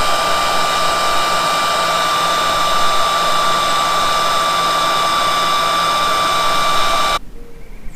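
Electric heat gun blowing steadily with a constant whine, shrinking heat-shrink tubing over a soldered wire connector. It switches off suddenly about seven seconds in.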